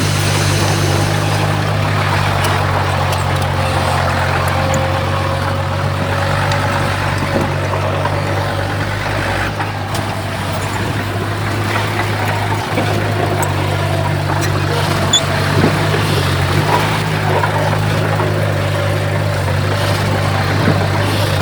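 Heavy diesel earthmoving machinery running steadily: a constant low engine drone with a fainter wavering whine above it.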